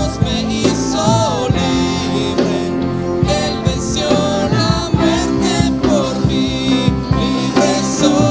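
Church worship band music: guitar and other instruments over a steady beat, with a voice singing at times.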